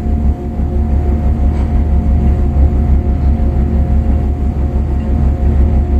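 Large car ferry's machinery running with a loud, steady low drone and a couple of steady humming tones over it, as the ship manoeuvres onto its berth.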